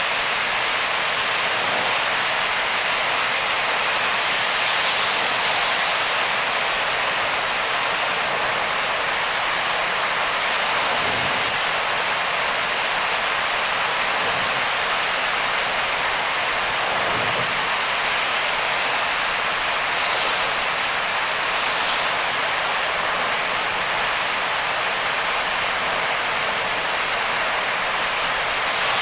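Heavy rain and tyre spray from a car driving on a flooded-wet expressway: a steady, dense hiss, with four brief swells of sharper hiss.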